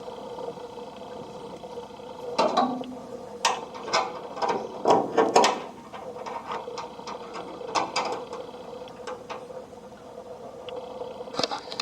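A small motor hums steadily while a series of sharp metallic clicks and knocks sound over it, heaviest and loudest in the middle, during sheet-steel panel work.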